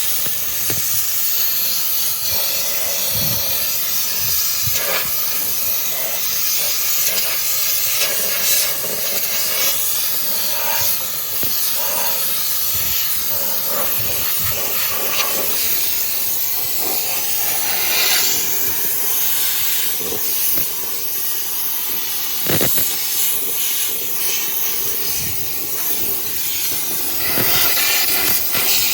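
Handheld steam cleaner blowing a steady hissing jet of steam over a truck's engine bay, with short uneven spurts and sputters.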